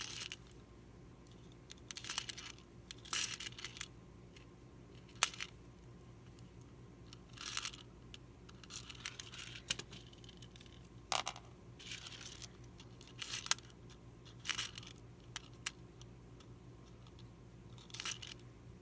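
Hand-sewing a journal binding with beads on the spine: short swishes of thread being drawn through the paper and cover every second or two, with a few small sharp clicks of beads, over a steady low background hum.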